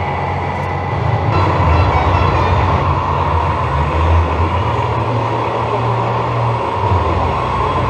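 Simulated diesel engine sound from a radio-controlled scale truck's sound module: a low drone that steps up in pitch about five seconds in and drops back a second and a half later.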